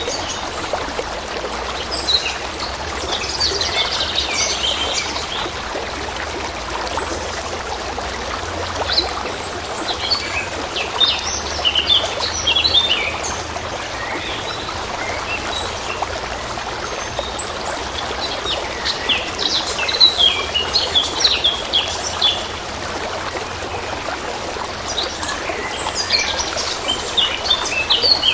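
Small songbirds chirping and singing in scattered bursts over the steady rush of trickling stream water.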